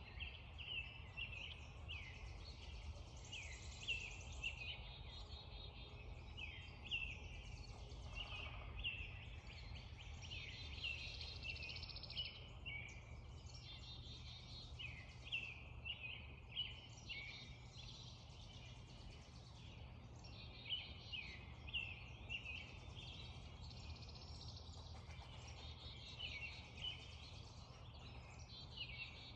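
Spring dawn chorus: many songbirds calling and singing over one another, continuous and overlapping, over a steady low rumble.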